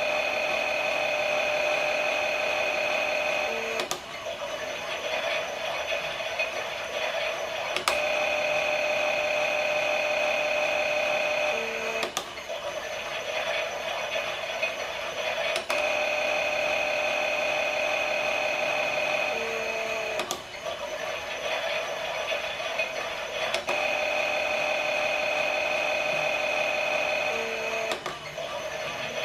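Toy washing machine's small electric motor whining as it runs a pretend wash. It goes in stretches of about four seconds, each ended by a click, alternating between a louder and a quieter whine.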